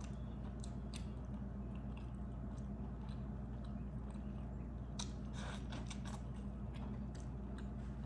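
Close-up chewing of a handful of fufu and egusi soup: wet clicks and smacks, thickest about five to six seconds in, over a steady low hum.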